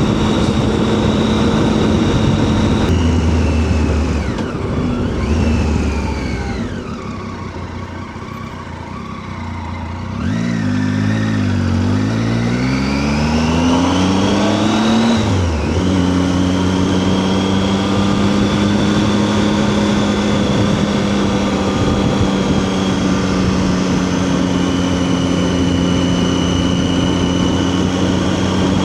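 Triumph Tiger 800's three-cylinder engine on the move: running steadily, then dropping in pitch and quieter as the bike slows, then revving up again from about ten seconds in with an upshift near fifteen seconds, and settling into a steady cruise for the rest.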